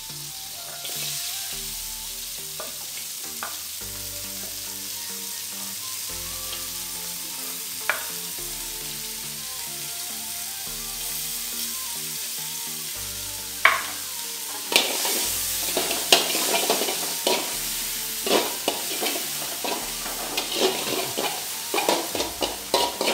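Chopped shallots, garlic, spring onion and chili sizzling and frying in melted butter in a wok, the hiss rising about a second in as they are tipped in. From about halfway on, a metal spatula knocks and scrapes against the wok with frequent clicks as the mixture is stir-fried. Background music runs underneath.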